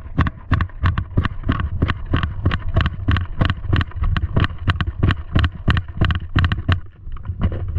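Footsteps of a person running, a steady beat of about four strides a second, easing off near the end.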